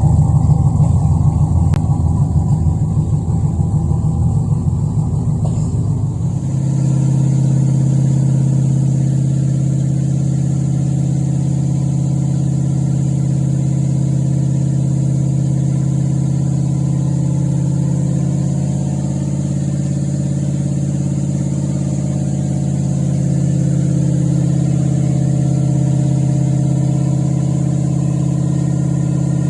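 Chevy 5.3 LS V8 in a 240SX firing up and running with a rapid, uneven pulse for about six seconds, then settling into a steady idle.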